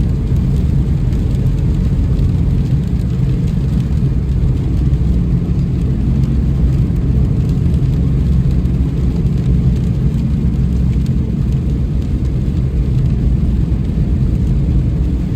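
Car driving in rain: a steady low road rumble with a faint hiss of rain and scattered drop ticks over it.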